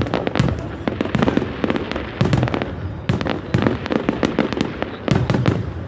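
Fireworks display: a rapid, irregular string of sharp bangs and crackles from bursting shells, several a second over a continuous low rumble.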